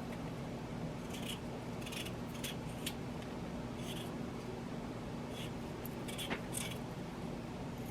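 Kitchen knife cutting raw potatoes into small pieces: short crisp cuts at an irregular pace of about one or two a second, over a low steady hum.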